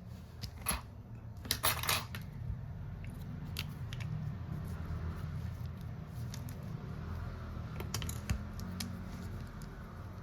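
Small tools and phone parts clicking and tapping as they are handled and set down on a repair bench, in a few short clusters, over a steady low hum.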